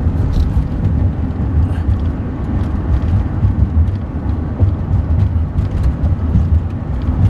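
Steady low rumble of a moving van, tyre and engine noise heard from inside the cabin, with uneven buffeting.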